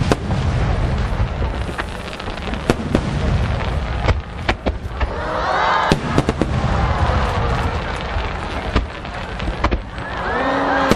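A barrage of shakudama (No. 10, about 30 cm) aerial firework shells launching and bursting in rapid succession: many sharp bangs over a continuous low rumble.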